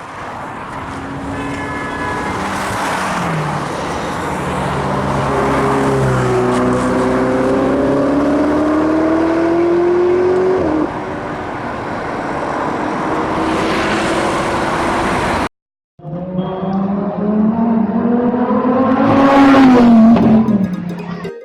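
Supercar engines accelerating hard, the pitch climbing and then dropping at gear changes. Two separate runs are cut together with a brief break a little past halfway, and the second climbs to the loudest rev near the end.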